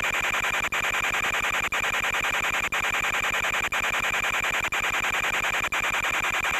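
Steady electronic static hiss with a fine buzz, typical of the audio channel of an analog FPV video link, dropping out briefly about once a second.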